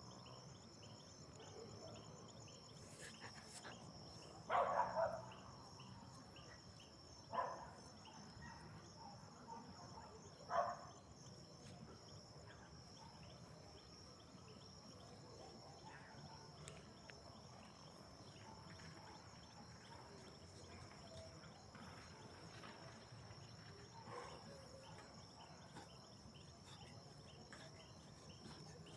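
Night ambience: a steady high-pitched chirping of crickets, with a dog barking three times, about five, seven and ten seconds in, over a faint low rumble.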